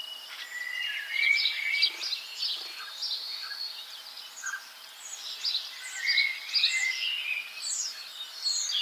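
Small songbirds chirping and twittering, many short high calls overlapping, with a faint steady tone underneath.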